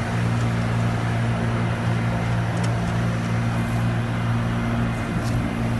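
American Standard R-410A outdoor condensing unit running, its compressor and condenser fan giving a steady low electrical hum with a few faint clicks over it.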